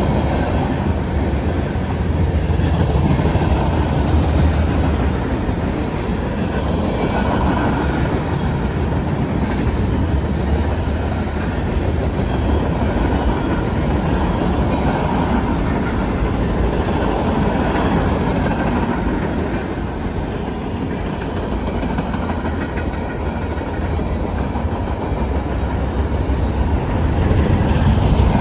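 Freight cars of a Norfolk Southern manifest train rolling past at close range: a loud, steady rumble of steel wheels on the rails, swelling and easing slightly as the cars go by.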